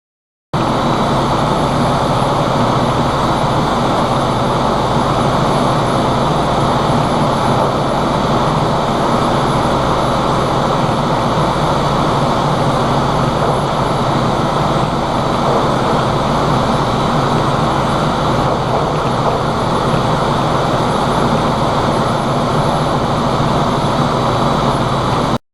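Loud, steady drone of ship engine-room machinery, an even noise with a low hum under it, with no changes or impacts; it starts abruptly about half a second in and stops abruptly.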